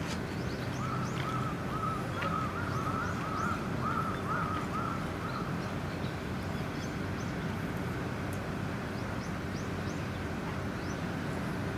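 A bird calling: a quick series of about a dozen short, arched notes lasting four or five seconds, with faint high chirps above, over a steady low background hum.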